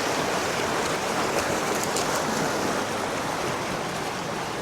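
Mountain creek running high after storms: a steady rush of water.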